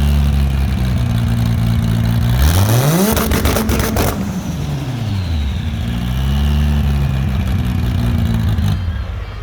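1994 Toyota Supra race car's turbocharged straight-six being revved: it holds a steady fast idle, climbs sharply about two and a half seconds in and bounces off the rev limiter for about a second with a rapid crackle, then drops back. A falling whistle from the turbo follows as the revs fall, and the engine note drops away near the end.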